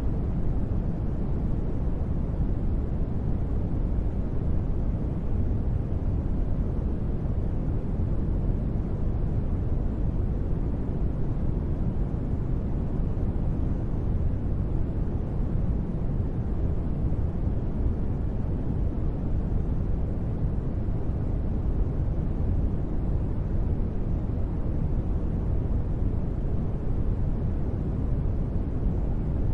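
Steady, deep noise with its weight in the low end, an unbroken ambient noise track for sleep and relaxation.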